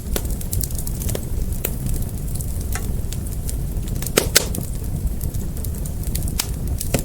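Fire crackling: scattered pops and snaps over a steady low rumble, with two louder pops in quick succession a little past halfway.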